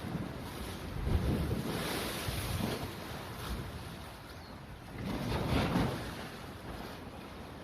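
Outdoor rushing noise of wind buffeting the microphone, swelling twice: from about a second in and again around five seconds in.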